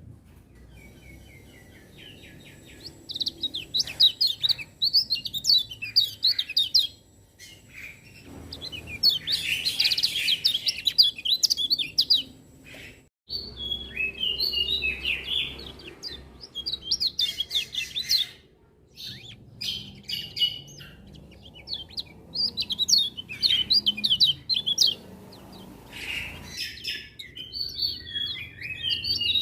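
Kecial kuning (lemon-bellied white-eye) singing: bursts of fast, high twittering notes, five bouts separated by short pauses.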